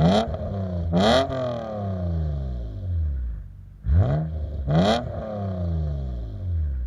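1998 BMW E36 M3's 3.2-litre straight-six revved through a Magnaflow dual in/out muffler: four quick throttle blips in two pairs, each rising sharply in pitch and falling back slowly toward idle.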